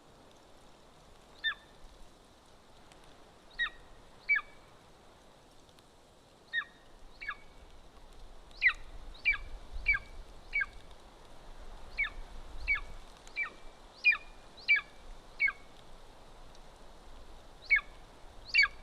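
Golden eagle calling: a series of short, high, sharply down-slurred calls, a few spaced out at first, then coming quickly one after another through the middle, with a last pair near the end.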